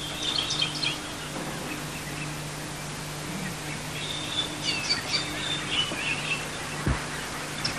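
Birds chirping in short, high calls: a few at first, then a longer spell of chirping about four seconds in, over a faint steady low hum.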